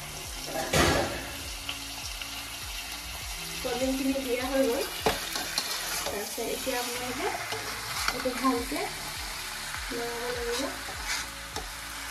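Chicken and potato curry sizzling in a dark metal wok while a metal spatula stirs it, with a few sharp scrapes against the pan, one about a second in and another about five seconds in.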